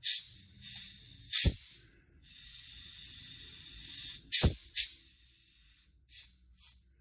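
Air being blown into the air-suspension compressor's hose port, hissing out in short blasts, with one steady hiss lasting about two seconds and two sharp pops. The air escapes instead of holding pressure.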